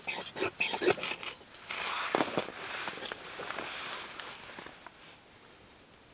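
Ferro rod scraped hard several times in quick strokes to throw sparks onto fat wood and saw shavings, followed by a softer hiss lasting a few seconds that fades out.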